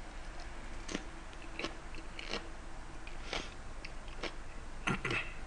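A person biting and chewing a raw green chili pepper close to the microphone: a string of short crisp crunches at irregular intervals, about every half second to a second, with two close together near the end.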